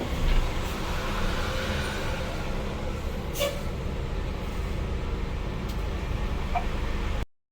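Scania bus on the move, heard from inside the cabin: a steady low engine and road rumble with a short sharp click about three and a half seconds in. The sound cuts off abruptly near the end.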